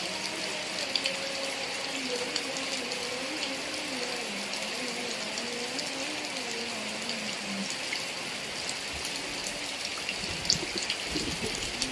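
Steady heavy rain falling, with many small drop ticks. A low, wavering hum runs under it and fades out about two-thirds of the way through, and a few knocks come near the end.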